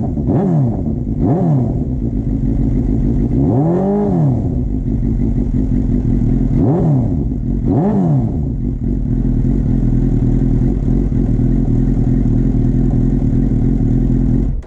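Suzuki GSX-R 750 inline-four idling through a Scorpion Red Power half-system exhaust, with the throttle blipped: two quick revs near the start, a longer rev about four seconds in, and two more around seven and eight seconds. After that it settles back to a steady idle.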